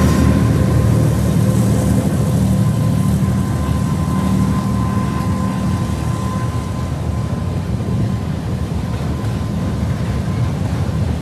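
Freight train of autorack cars rolling slowly past: a steady low rumble of wheels on rail, with a thin steady squeal running through it that fades out about two-thirds of the way through.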